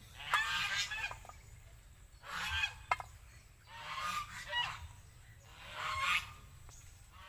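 Geese honking in four or five separate bursts of calls, each about half a second to a second long.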